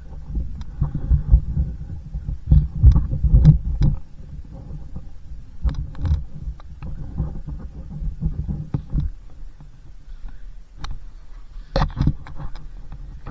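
Minibike's small engine running, with a steady low hum. Irregular low rumbles and thumps are heavy in the first few seconds and then ease off.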